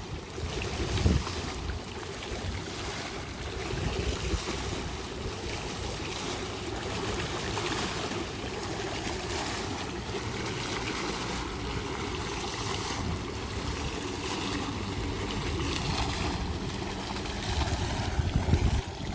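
Outdoor water fountain running: a steady splash and rush of falling water, with a brief louder low bump about a second in and another near the end.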